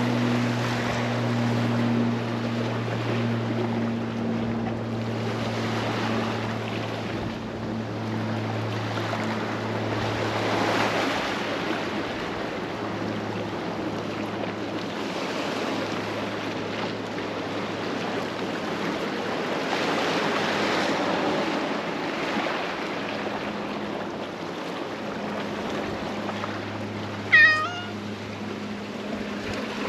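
Surf washing over a concrete breakwater with a steady low drone, and a domestic cat meowing once, loudly, near the end.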